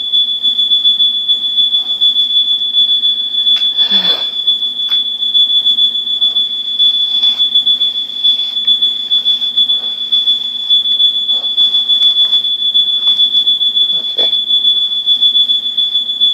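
Smoke detector sounding: one unbroken, loud, high-pitched alarm tone. It was set off by smoke from a very hot blow dryer.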